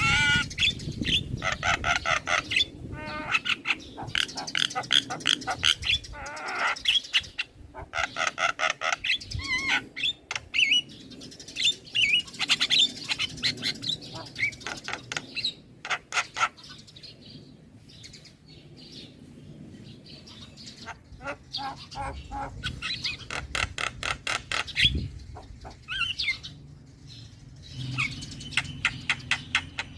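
Young male Javan myna singing: fast runs of repeated chattering notes mixed with short whistles and harsh squawks, with a quieter lull about two-thirds of the way through.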